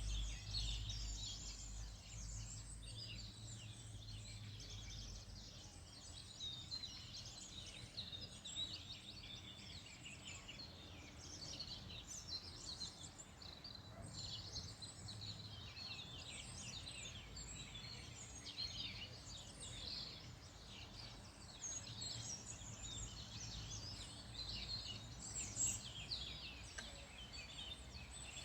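Many small songbirds singing and chirping at once, a dense, continuous chorus of short high trills and calls, over a low rumble.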